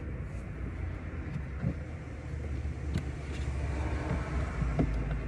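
Steady low rumble of a running vehicle engine, with a few light knocks and clicks.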